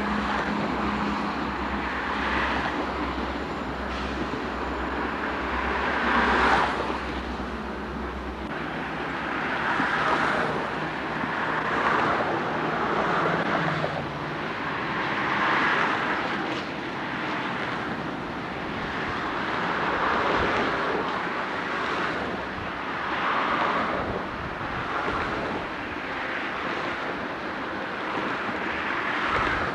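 Freight train rolling past: a steady rush of steel wheels on rail that swells and eases about every two seconds as the cars go by. A low steady hum runs under it for about the first eight seconds, then fades.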